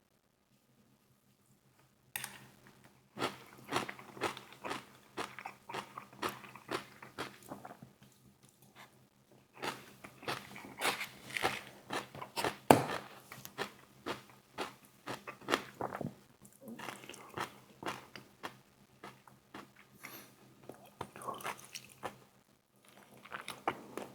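Close-up eating: irregular crunching and chewing of food in the mouth, starting about two seconds in, with one louder crunch about halfway through.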